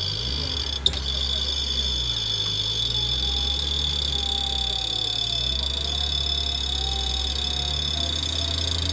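Off-road vehicle engine running with a low rumble that swells and eases, under a steady high-pitched whine. A single sharp click about a second in.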